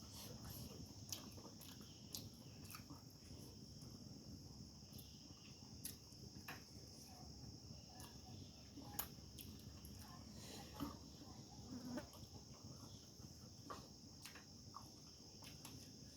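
Faint, steady, high-pitched insect chirring, with scattered soft clicks and small crunches of someone eating by hand.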